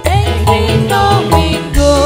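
Dangdut koplo band music: a steady drum beat under a melody that slides up and down in pitch.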